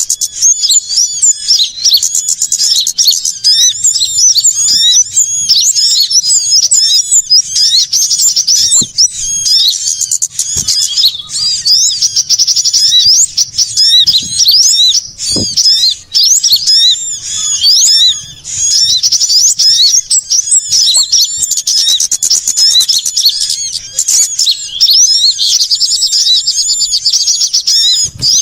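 Dense, high-pitched chorus of many small songbirds chirping and trilling over one another without a break: a bird-lure recording of small-bird calls used to draw birds in.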